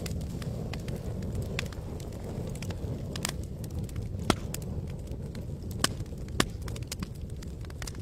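Campfire crackling: irregular sharp pops and snaps over a steady low rumble, with three louder pops about four, six and six and a half seconds in.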